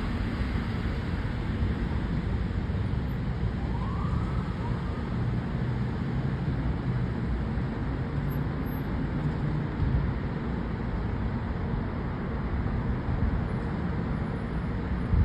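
Steady distant city traffic rumble, with a faint, brief siren wail rising and falling about four seconds in.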